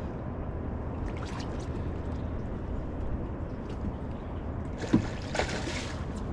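Water trickling and lapping around a small fishing boat over a steady low rumble. A sharp knock comes about five seconds in, followed by a short burst of hiss.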